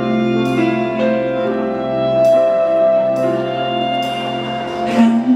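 Live band playing the slow instrumental introduction of a ballad, with held chords. Near the end the texture changes as the next phrase, likely the vocal entry, begins.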